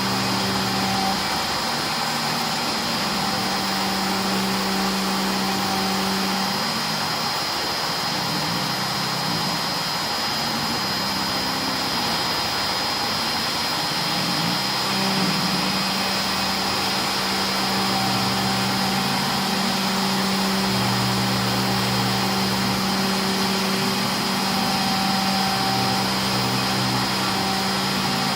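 CNC router running a job: the inverter-driven spindle gives a steady high whine over a constant hiss, while lower motor tones start, stop and shift pitch every few seconds as the machine's axes move.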